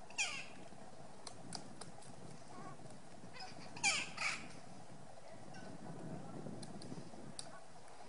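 Harsh bird calls sliding steeply down in pitch: one about a quarter second in and two close together near the middle, with a few faint sharp ticks in between.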